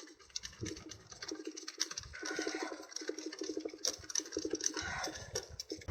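Ratchet wrench clicking quickly and evenly, about ten clicks a second, while driving in the bolts that hold a gear-shift actuator onto the gearbox, with a few sharper metal clicks.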